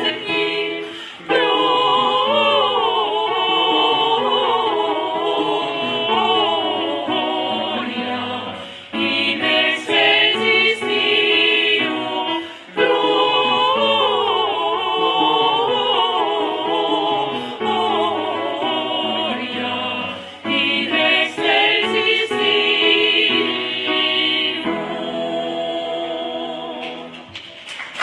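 Several voices singing a song in phrases, in the manner of a choir, fading out near the end.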